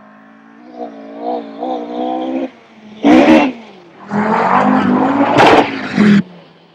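Audi quattro Group B rally car's turbocharged five-cylinder engine revving up and down through gear changes. A short, very loud burst about three seconds in, then a longer loud stretch from about four to six seconds in as the engine is worked hard.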